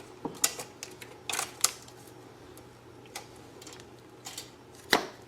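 Scattered sharp clicks and snaps of fuel hose and small parts being handled and cut, the loudest near the end, over a faint steady hum.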